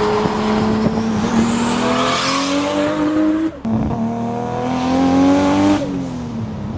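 Nissan Skyline GT-R R32's twin-turbo straight-six revving up under acceleration, with a rising turbo whistle. About three and a half seconds in there is a short break, like a gear change, and the pitch climbs again before dropping near the end.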